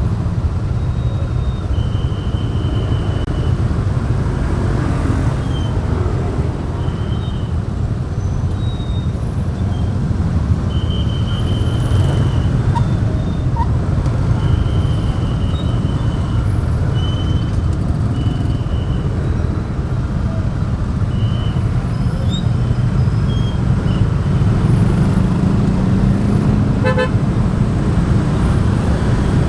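Motorbike ride in city traffic: steady engine and road noise with many short, high-pitched vehicle horn toots at irregular intervals, some brief and some held about a second.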